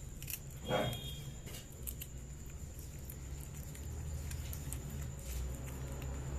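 Cat eating fish: scattered small clicks of chewing, with one short vocal sound from the cat about a second in. A steady low rumble runs underneath.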